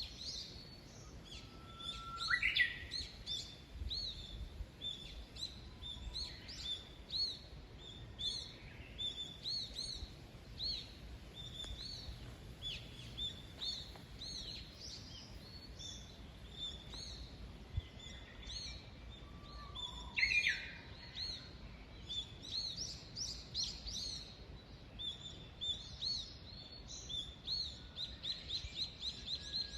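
Small songbirds singing and chirping without pause: many quick, repeated high chirps. A louder rising call stands out three times: near the start, about two-thirds of the way through, and at the very end.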